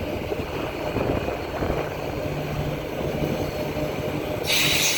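Transperth A-series electric multiple unit pulling away from the platform: a steady low rumble with a faint hum, then a sudden loud hiss near the end.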